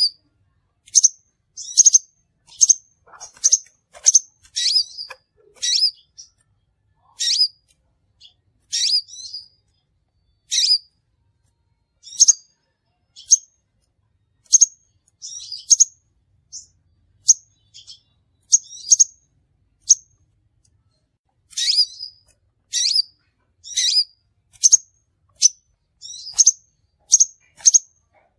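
Crimson sunbird calling: short, sharp, high-pitched chirps repeated about once a second in uneven runs, with a few short pauses.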